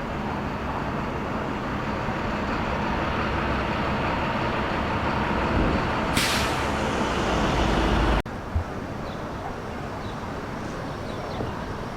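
City street traffic with a heavy vehicle's low engine rumble growing louder, and a short air-brake hiss about six seconds in. After an abrupt cut about eight seconds in, quieter street traffic.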